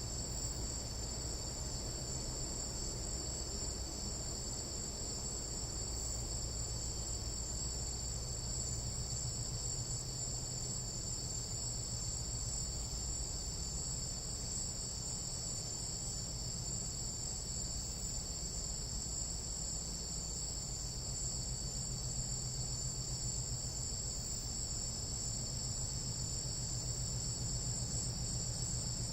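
Night insects in a tropical jungle, several cricket-like trills layered into a steady high-pitched chorus, with a faint low hum beneath.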